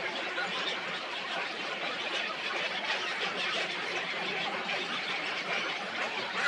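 Dense, steady chatter of many birds calling at once, a continuous mass of short high chirps.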